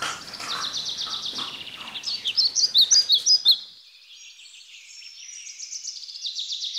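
Birdsong: rapid, high-pitched chirps and trills, loudest about halfway through. The room's background sound cuts out about halfway while the chirping carries on.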